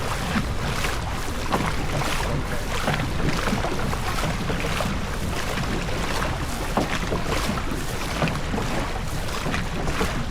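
Steady rushing of wind and water from a boat under way, with gusts buffeting the microphone over a low rumble.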